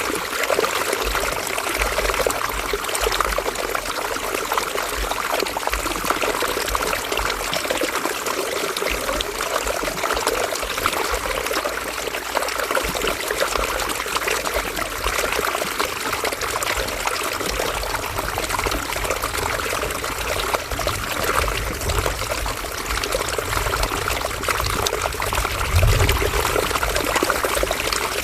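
River water running and trickling over stones in a steady rush, with occasional low rumbles, a stronger one near the end.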